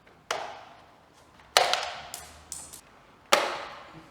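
Sharp clicks and knocks from plastic push-pin fairing clips on an Aprilia Tuono 660 being pried out with a flat-blade screwdriver: three loud ones and a fainter one, each dying away quickly.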